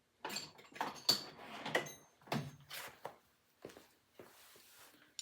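Metal parts and tools being handled on a workbench: a series of separate knocks and clatters, one with a short metallic ring about two seconds in.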